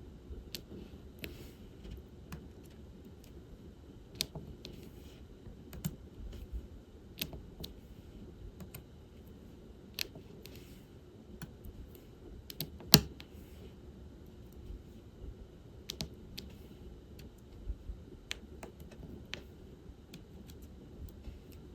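Diamond painting work: a drill pen's tip tapping resin drills down onto the adhesive canvas, light irregular clicks about once a second, with a few soft rattles of drills in the tray and one much louder tap about halfway through.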